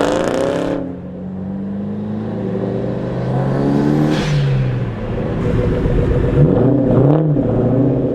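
Car engine revving hard under acceleration, its pitch climbing and dropping several times, with a loud rush of noise at the very start.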